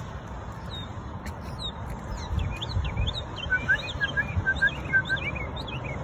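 Songbirds chirping and singing in the brambles, with a run of about eight short, evenly repeated whistled notes starting about three and a half seconds in. A low rumble runs underneath.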